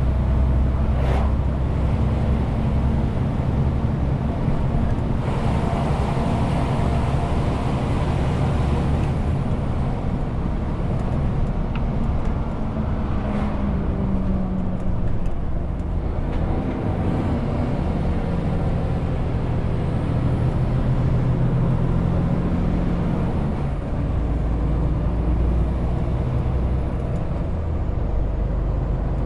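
Renault T520 truck's six-cylinder diesel engine running steadily under load, with road and tyre noise; the engine note shifts up and down several times as the speed changes.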